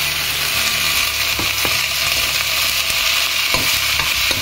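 Spinach sizzling steadily in hot oil in a stainless steel kadai, a constant frying hiss. A few light clicks of a steel spatula against the pan come as the greens are stirred.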